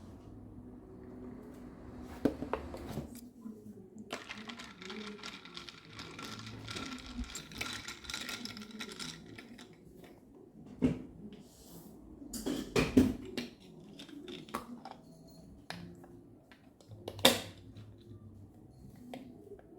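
Household handling sounds: a few seconds of hiss, then scattered sharp clicks and knocks, the loudest near the middle and about three-quarters of the way in.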